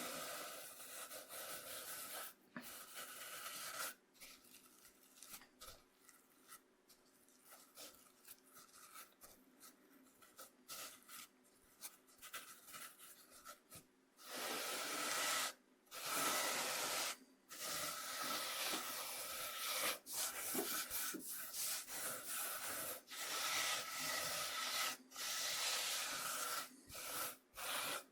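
Coarse cornmeal scraped across a bamboo cutting board, a gritty, scratchy rubbing in long strokes with brief breaks. It is louder for the first few seconds, softer and patchier for about ten seconds, then loud again to the end.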